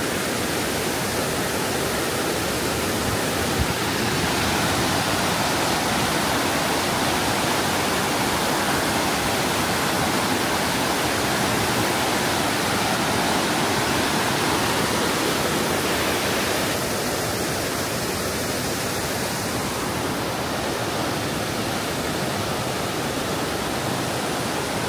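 Steady, loud rushing of water, heavy rain or fast-flowing water, with one brief click a few seconds in.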